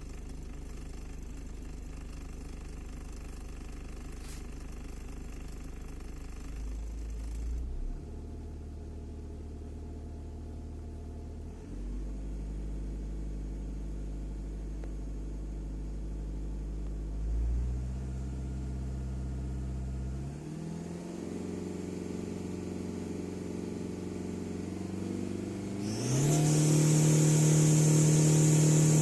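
Hyundai Tucson's common-rail diesel engine running, its speed stepping up several times. Near the end it is revved hard for about three seconds and falls back right at the close.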